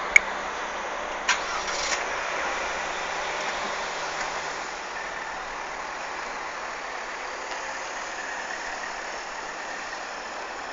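Car with its engine running and a steady noise of engine and road, with a few sharp clicks in the first two seconds.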